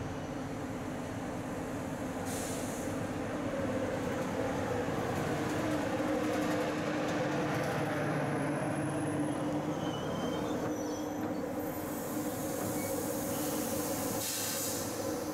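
A TGV Réseau high-speed trainset rolling slowly along the platform, giving a steady rumbling hum with a few held tones. Faint high-pitched squeals from the wheels or brakes come about two-thirds of the way in.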